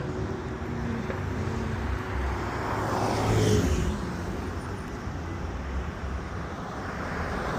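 Car engines running, with the sound swelling louder about three seconds in and then easing off.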